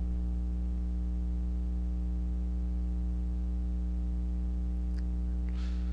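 Steady electrical hum and buzz, a low mains hum with a stack of overtones, running at an even level.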